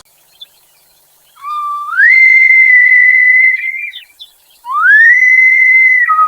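Two long, high whistle-like calls. The first starts low and steps up to a held note about half a second in. The second glides up to the same held note, then drops back down near the end.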